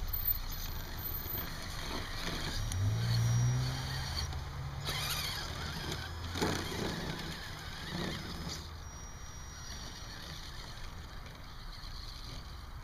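Small electric motor of an RC truck whining, rising and falling in pitch for a few seconds, over a steady low rumble.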